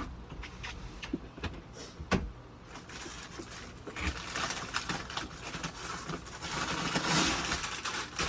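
A plastic bag of frozen broccoli being handled and opened: crinkling and rustling that grows louder partway through, with a few light knocks and clicks before it.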